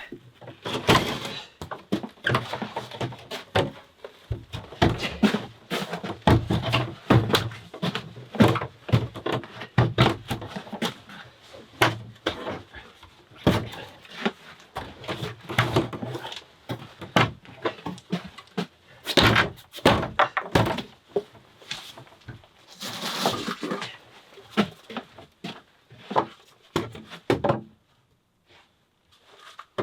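Irregular wooden knocks and thunks of timber being handled and fitted in a small wooden room, stopping shortly before the end.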